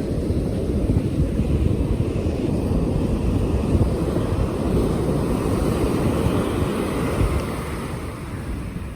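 Wind buffeting the microphone in a low rumble over the wash of ocean surf. The rumble eases about seven seconds in.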